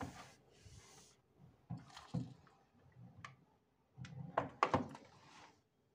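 Things being handled and set down in a cupboard: a series of light knocks and clunks, with the loudest cluster about four and a half seconds in.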